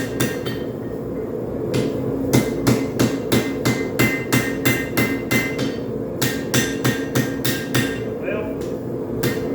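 Hand hammer striking a hot railroad spike on an anvil, in runs of about three blows a second with a few short pauses. Each blow rings briefly, over a steady low drone. These are the last forging blows that finish the spike knife's shape.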